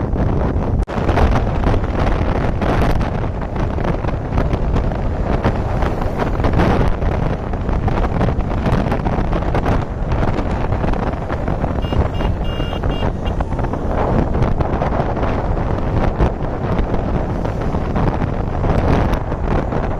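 Wind buffeting the microphone of a moving bike: a steady, heavy rush of wind and road noise. A brief high tone sounds about twelve seconds in.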